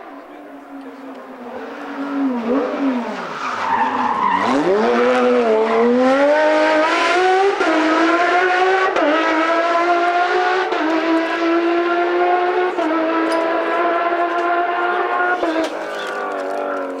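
Rally car engine at competition pace: the revs drop sharply as the car slows for a corner, with tyre scrub and skid, then it accelerates hard, the engine note climbing and staying high and loud for about ten seconds before easing off near the end.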